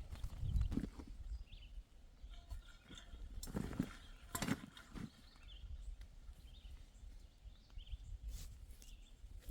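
Stones being gathered and set down, knocking against each other a handful of times (around the first second, the middle and near the end), with footsteps and rustling on the forest floor.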